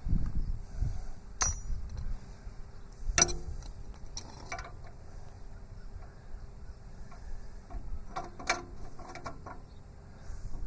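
Hand tools clinking on the tractor's steel sub-frame and bolts: a few sharp, scattered metal clicks and knocks as sockets and wrenches are handled and fitted.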